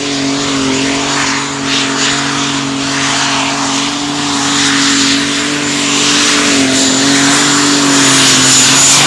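Modified pulling tractor's engine running loud at a fairly steady speed, with a high thin whine held above it. It grows a little louder near the end.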